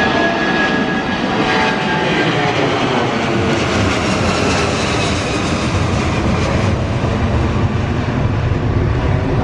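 Jet airliner's engines running loud and steady as it passes close by. A whine fades over the first couple of seconds, and a low rumble grows stronger near the end.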